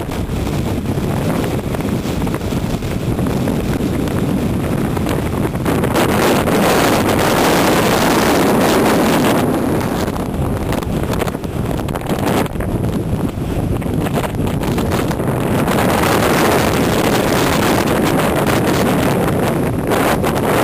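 Strong wind buffeting the microphone over the noise of a stormy sea, loud and continuous, swelling and easing in gusts.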